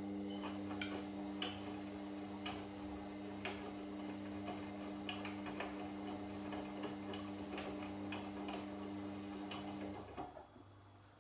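Washing machine drum turning in the wash cycle: a steady motor hum with irregular clicks and taps from the tumbling laundry. It stops about ten seconds in as the drum pauses.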